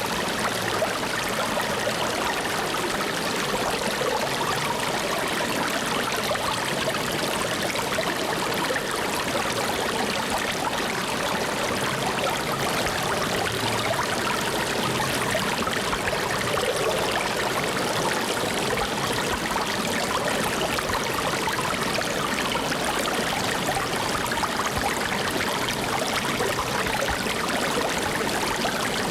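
Flowing water running steadily: an even rushing noise that never breaks or changes.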